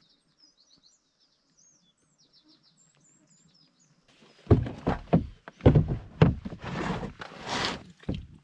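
Faint bird chirps in quick rising and falling notes for the first four seconds or so. Then, about four and a half seconds in, loud uneven surges of rushing noise with deep thumps take over.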